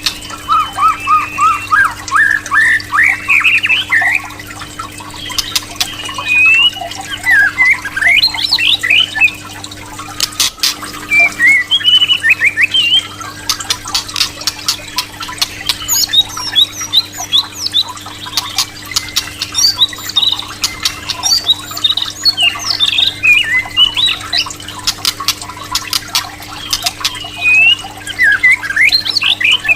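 White-rumped shama calling in rapid bursts of chirps and rising whistles, mixed with sharp clicks, over a steady low hum.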